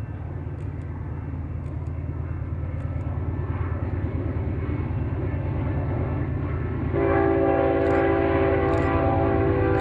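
An approaching train's locomotive rumble grows steadily louder; about seven seconds in, the locomotive horn sounds a sustained chord of several notes and holds it. Faint regular clicks run throughout.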